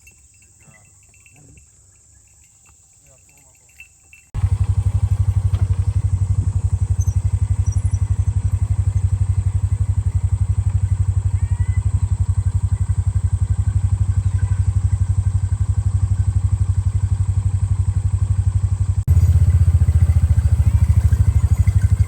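Faint crickets or other insects, then about four seconds in a loud engine cuts in abruptly and runs steadily with a fast, even low throb, close to the microphone; it steps up slightly near the end.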